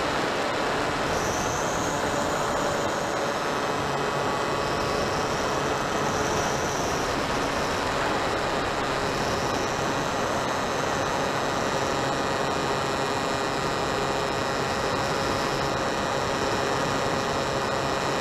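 Hobbyking Drifter RC plane in flight: its small electric motor whines steadily over a constant rush of noise. The whine's pitch drifts slowly up and down a few times.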